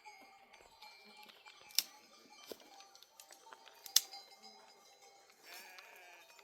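Sheep bleating, one wavering bleat near the end, with two sharp clicks about two and four seconds in that are the loudest sounds.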